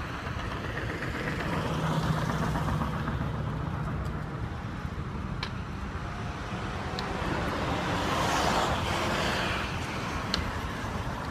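Steady engine and road noise of a moving car, with a few faint ticks.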